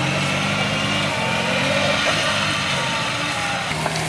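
Off-road 4x4's engine running, its revs stepping up and down a few times.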